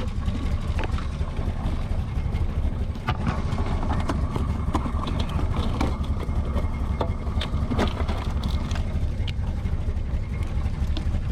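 Engine idling steadily, a continuous low rumble, with scattered light clicks and knocks over it.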